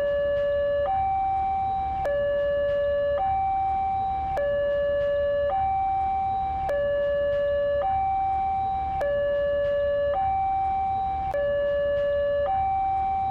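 Two-tone hi-lo siren alternating steadily between a lower and a higher note, each held a little over a second, over a faint low rumble.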